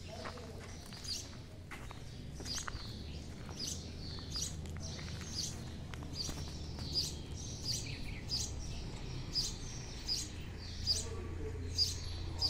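A small bird chirping over and over, one short high chirp a little more often than once a second, over a steady low hum.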